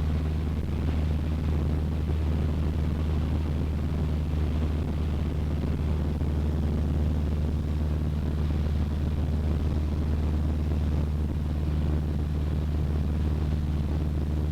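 Cessna 152's Lycoming O-235 four-cylinder engine and propeller running steadily at a constant power setting, heard from inside the cockpit.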